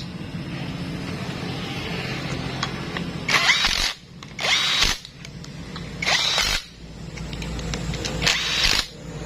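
Handheld power drill-driver run in about five short bursts of half a second each, spaced a second or two apart, with a steady low hum before them.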